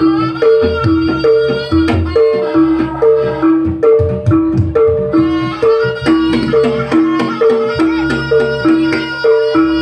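Javanese jaranan ensemble music: two gong-chime notes, one high and one low, alternating in a steady repeating pattern, with drumming underneath and a sustained melody line above.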